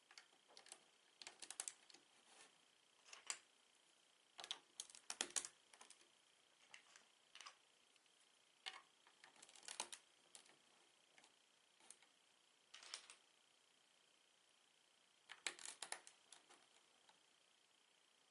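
LEGO bricks being handled and pressed together: irregular small plastic clicks and taps, some in quick clusters, with short pauses between.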